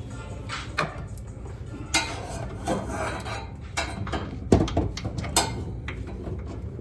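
Metal hand tools and car parts clinking and knocking at irregular intervals while a transmission is being unbolted, with a few sharper knocks about two, four and a half and five seconds in.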